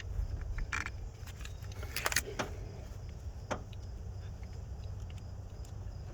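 Scattered light metallic clicks and clinks of hand tools working the camshaft sensor's screws on a distributor, over a low steady rumble.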